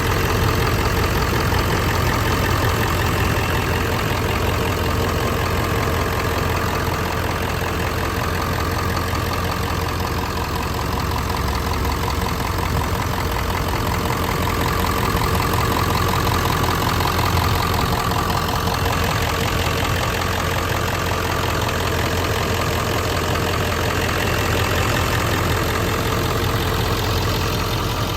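1999 Ford F-250's 7.3-litre Power Stroke turbo-diesel V8 idling steadily, with the even diesel clatter of its injection.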